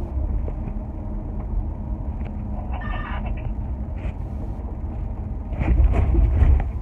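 Car driving, heard from inside the cabin: a steady low road and engine rumble, with a short tone about three seconds in and a heavier rumble near the end.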